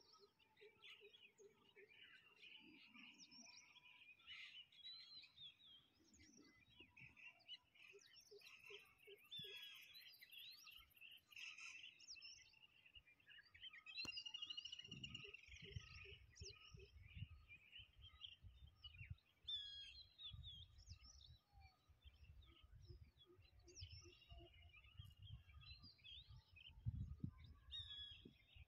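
Faint birds chirping and calling, many short overlapping calls and whistles. From about halfway through, a low rumble comes and goes underneath.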